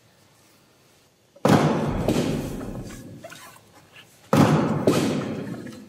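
Two heavy thuds about three seconds apart, each ringing out for a second or two in a large reverberant church.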